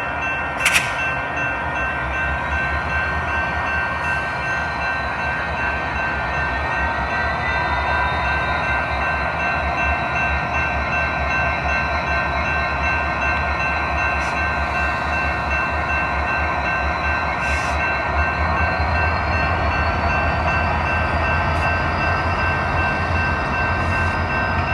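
Local freight train's locomotive running with a steady low rumble and several steady high tones. The high tones rise in pitch about three seconds in and again about nineteen seconds in. A sharp click comes about a second in.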